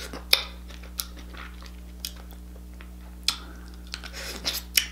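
Close-miked chewing and mouth smacking while eating king crab leg meat, with about five sharp clicks spread through, over a steady low hum.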